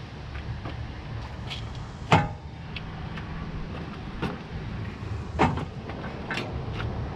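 Hydraulic hoses and their metal fittings being pushed through a tractor loader frame, giving four sharp knocks and clunks, the loudest about two seconds in, over a steady low rumble. The fittings are catching inside the frame.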